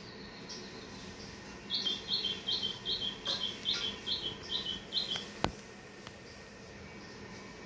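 A bird calling about ten times in quick succession, short high notes at roughly three a second, each stepping down in pitch. A single sharp click follows just after the calls stop.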